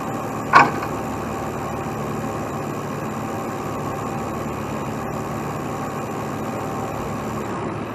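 Heavy diesel truck engine running steadily, with one short sharp burst of noise about half a second in.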